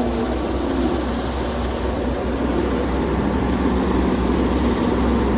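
Car engine and road noise, a steady drone, with the engine note falling away at the very start.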